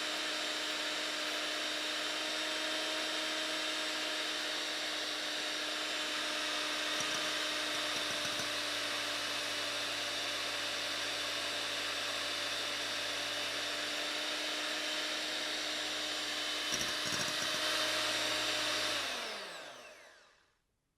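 Electric hand mixer running steadily on a low speed, whisking egg foam in a bowl with a constant motor whine. Its beaters are smoothing the foam to knock out the large bubbles. Near the end it is switched off and winds down to a stop.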